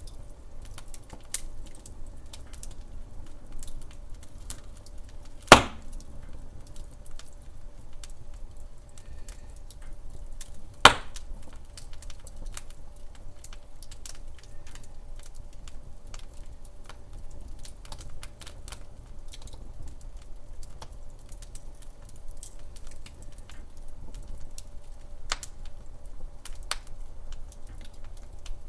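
Log fire crackling in a fireplace: scattered small crackles with two loud sharp pops, about five and eleven seconds in, over a steady low rumble.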